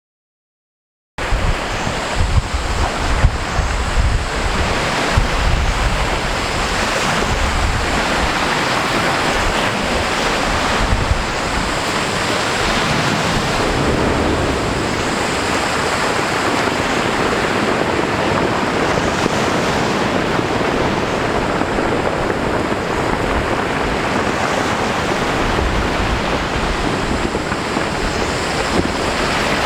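Steady rushing of sea waves with wind buffeting the microphone, starting suddenly about a second in.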